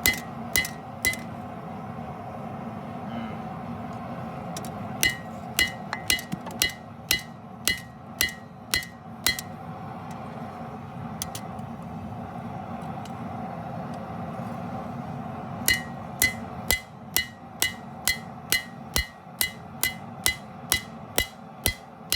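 Hand hammer striking a hot steel knife blank on an anvil, each blow ringing, about two blows a second. There are three runs of blows with pauses between them: a few at the start, about nine a few seconds in, and a longer run of about fifteen near the end. A steady low hum runs beneath.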